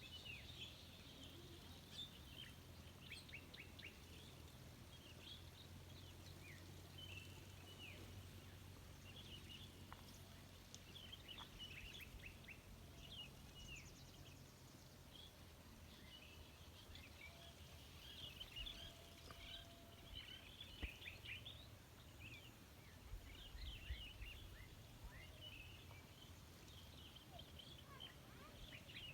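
Small birds chirping, many short high-pitched falling chirps in loose clusters, faint, over a low steady rumble.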